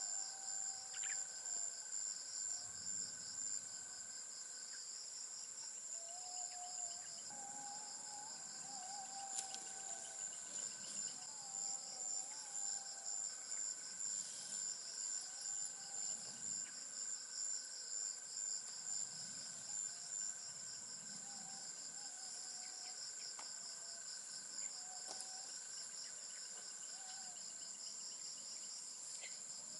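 Rainforest insect chorus: a steady high-pitched drone with a second insect call pulsing about twice a second over it, plus a thinner steady tone lower down. Faint wavering calls come and go underneath.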